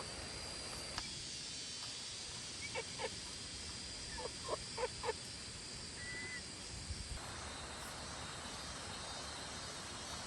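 Short animal calls, a few at a time in two quick clusters, over steady outdoor background noise; a thin high steady tone stops about a second in.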